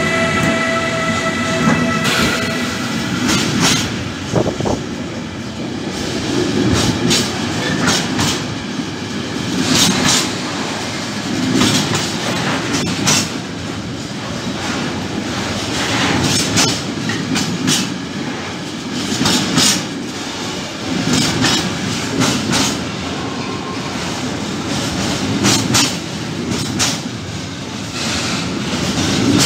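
A freight train of empty Sggrss articulated container flat wagons rolls past close by. The wheels clack over the rail joints in repeated clusters over a continuous rumble and rattle. A steady whine from the passing Siemens Vectron electric locomotive fades out in the first two seconds or so.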